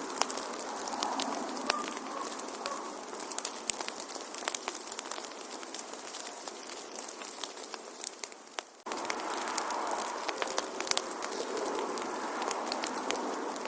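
Wood fire crackling in a fireplace: many sharp pops and snaps over a soft, steady hiss. About two thirds of the way in the sound fades briefly, then cuts back in abruptly.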